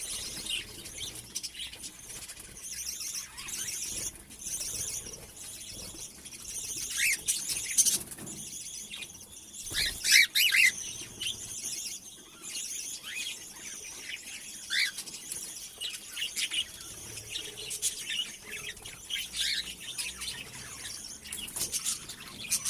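Cockatiels chirping: many short, high calls repeating throughout, with a few louder calls around eight and ten seconds in and a quick string of chirps near the end.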